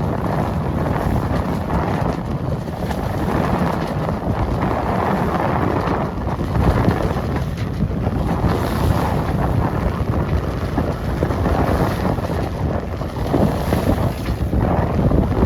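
Strong wind buffeting the microphone in gusts, over water rushing past the hull of a small sailboat under sail.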